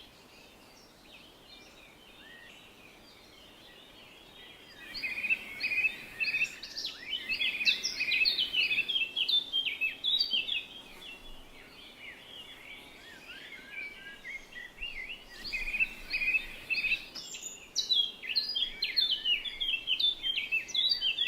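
Birds singing in quick, high chirps and whistled notes: sparse at first, then a dense burst of song about five seconds in, easing off midway and picking up again toward the end.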